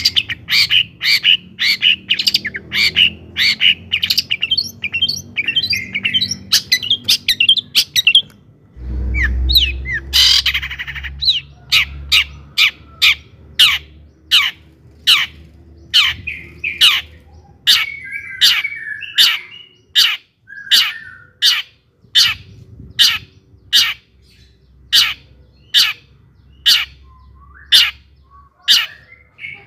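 Long-tailed shrike (cendet) calling: a fast run of sharp, harsh notes for about eight seconds, a short break with a noisy burst, then evenly spaced sharp notes, about one and a half a second.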